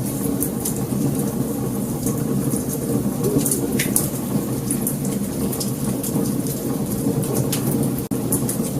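Wood fire burning: a steady low rush of flames with frequent sharp crackles and pops. The sound cuts out for an instant about eight seconds in.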